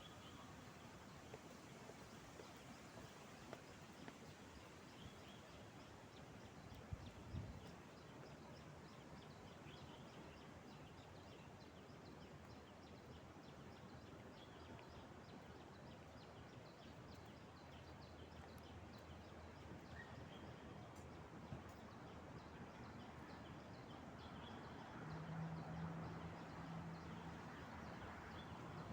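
Faint outdoor ambience with scattered faint bird chirps. There is a brief low thump about seven seconds in, and a low steady hum comes in near the end.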